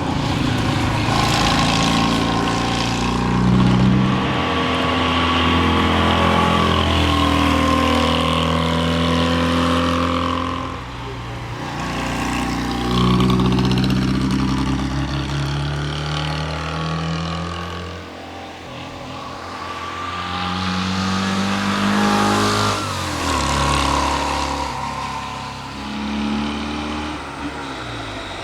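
Steyr Puch TR Europa's small air-cooled flat-twin engine driven hard, its note climbing through the revs and dropping at each gear change, again and again. It eases off briefly a couple of times before pulling hard once more.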